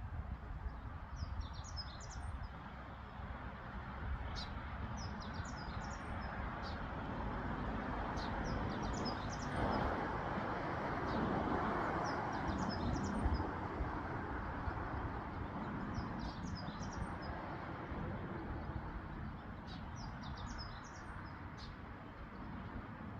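A songbird singing short high phrases again and again, about every one and a half to two seconds, over a steady rushing background noise that grows louder for a few seconds in the middle.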